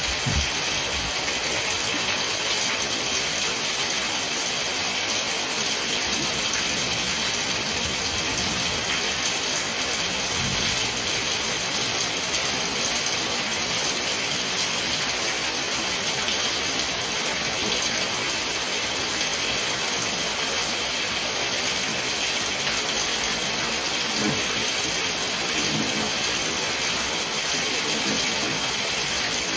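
Heavy rain falling in a steady, dense hiss, with water gushing and pouring.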